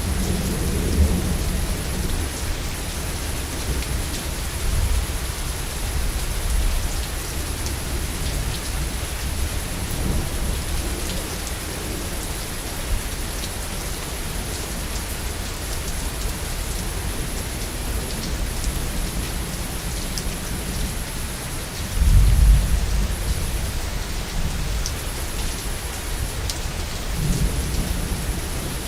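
Steady heavy rain falling with rolling thunder rumbling low underneath, swelling into a louder rumble about two-thirds of the way through.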